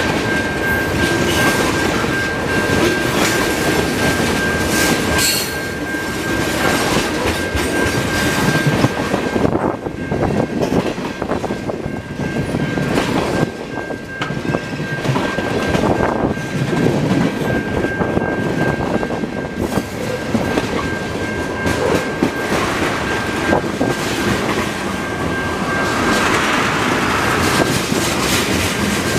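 Freight train of tank cars rolling past at close range: steady rumble with wheels clacking over rail joints. A thin, steady high-pitched wheel squeal runs through it and stops near the end.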